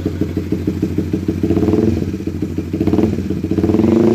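Honda CBR150R's single-cylinder engine running through a BRT Juken 5 racing exhaust, idling with a steady pulse and three short rises in revs from the throttle, about one and a half, three and four seconds in.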